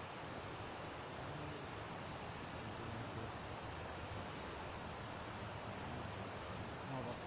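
Continuous high-pitched insect trill held on one pitch, over an even background hiss.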